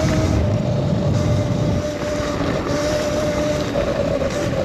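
Modded Razor MX650 electric dirt bike's motor whining at a nearly steady pitch while riding, over loud wind rumble on the action camera's microphone.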